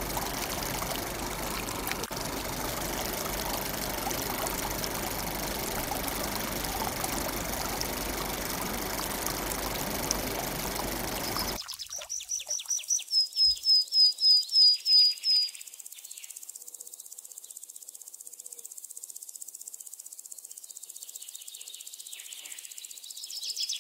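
Steady rushing of water pouring from a miniature toy water pump for about twelve seconds, cut off abruptly. A bird then gives a rapid run of loud chirps, about four a second for some three seconds, with a few fainter chirps afterwards.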